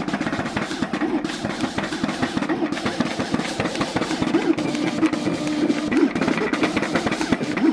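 Creation CT630 vinyl cutter cutting: its stepper motors whir in quick stop-start moves as the carriage and drive roller shuttle the vinyl back and forth, the motor pitch changing with each move.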